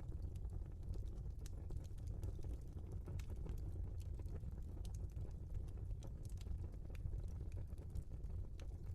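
Burning logs in a fireplace crackling, with many irregular sharp pops and snaps over a low steady rumble of the flames.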